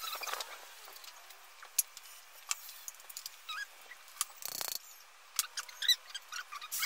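Small birds chirping in short, high, squeaky calls, with scattered sharp clicks and a brief thud about four and a half seconds in.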